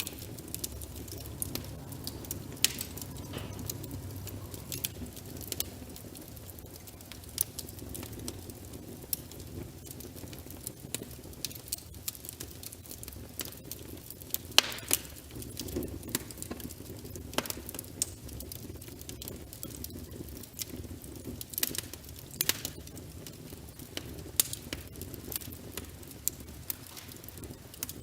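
Wood fire burning in a fireplace: a low steady rumble of flames with frequent small crackles and a few sharper pops from the burning logs.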